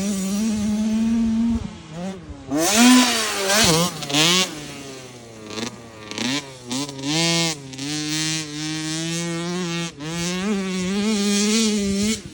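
Cobra 50 youth dirt bike's two-stroke engine, held high at first, then a run of short throttle blips with the pitch rising and falling, then climbing steadily again in the second half.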